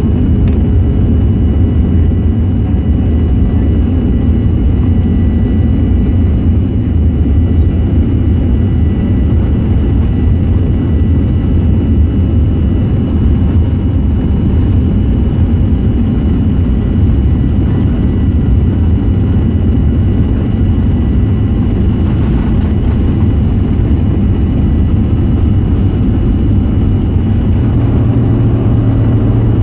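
Steady cabin noise inside a Boeing 737-900 with its CFM56-7B jet engines running: a deep, even rumble with a faint steady whine.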